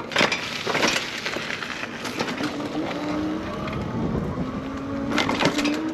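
Electric bike ridden over rough ground: wind on the microphone and tyre noise, with rattling jolts from bumps near the start and a cluster of bigger jolts near the end. A thin motor whine rises slowly in pitch through the second half.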